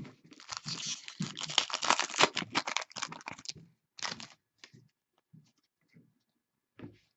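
Crinkling and tearing of a trading-card pack wrapper for about three seconds, followed by a few faint clicks and rustles of cards being handled.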